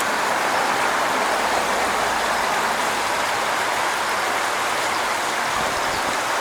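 A storm-swollen creek running in full force, giving a steady, even rush of water.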